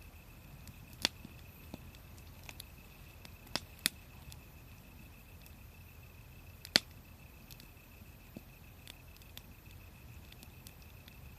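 Wood fire crackling: scattered sharp pops and snaps, the loudest about a second in, two close together near four seconds and one near seven seconds, over a faint steady background.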